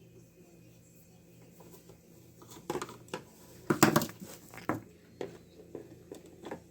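Clicks and rattles of hard plastic parts and a screwdriver as a robot vacuum is taken apart by hand. A busy cluster of sharp clicks starts about two and a half seconds in and is loudest around four seconds in. A few scattered small clicks follow.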